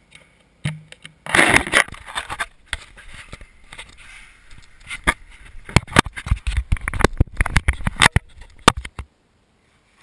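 Losi Mini 8ight 1/16-scale electric RC buggy being driven on an indoor floor: a stretch of tyre scraping, then a rapid run of sharp knocks and clatters as it bumps and skids. The sound cuts off abruptly about nine seconds in.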